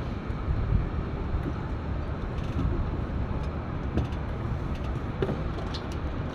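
Steady low rumble of wind on the microphone aboard a moving sailboat, with a few faint clicks.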